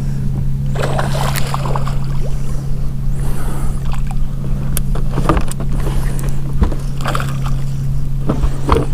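A boat motor running with a steady low hum, with scattered light knocks and clicks and short rustling noises over it.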